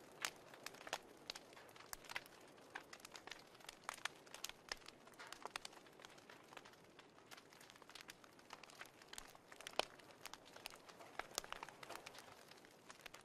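Faint crackling of a wood fire: irregular sharp pops and snaps over a soft steady hiss.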